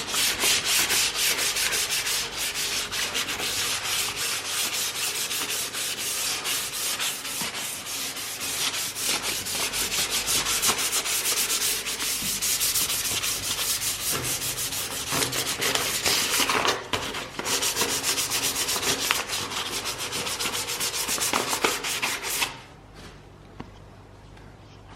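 400-grit sandpaper rubbing over epoxy primer on the steel engine bay in quick, even back-and-forth strokes, with a short break just after halfway. The sanding stops a few seconds before the end.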